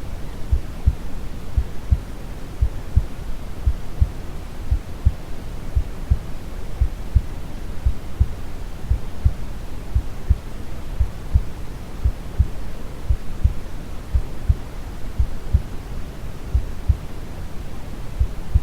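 Brown noise, a steady deep rushing hiss, with a slow, calm heartbeat over it: soft low thumps in lub-dub pairs about once a second.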